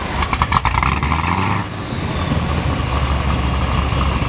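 Car engine idling with a low, steady drone. A short burst of scratchy, clicking noise sits over it in the first second and a half.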